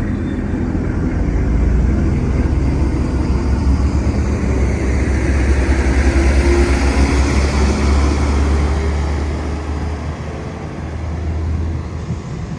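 Train passing at close range: a loud low rumble with wheel and rail noise that swells to its loudest about halfway through, then eases off.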